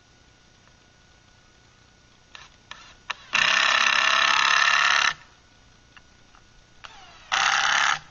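Power drill running in two trigger bursts, the first nearly two seconds long and the second under a second, with a few small clicks and knocks before and between them. It is likely driving screws to fasten the chainsaw mill's guide to the log.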